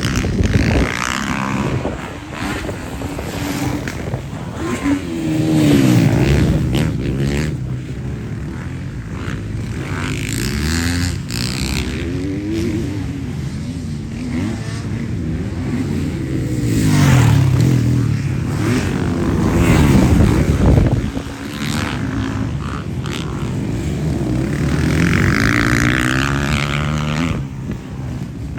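Motocross motorcycles racing, their engines revving up and down over and over as they run through the track, with several loud swells as bikes pass close.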